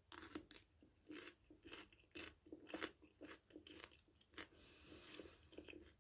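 Raw red bell pepper being bitten and chewed close to the microphone: a bite at the start, then crisp crunches at about two a second.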